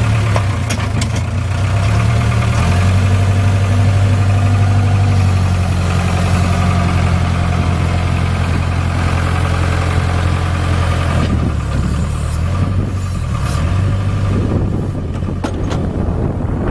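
Diesel engine of a Case 580 Super K loader backhoe running steadily. Its note changes about three seconds in and again about eleven seconds in.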